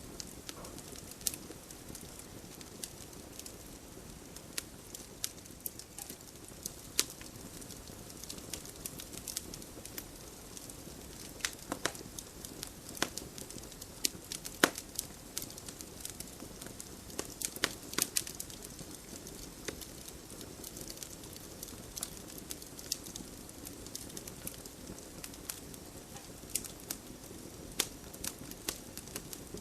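Wood fire in a fireplace crackling: irregular sharp pops and snaps over a steady low hiss of the burning fire.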